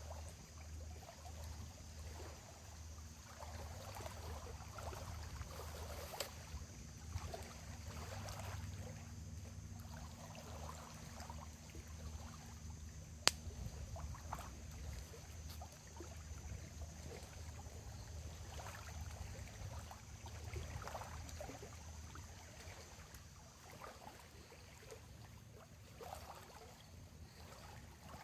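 Small waves lapping and washing irregularly at a lakeshore, with one sharp pop about thirteen seconds in.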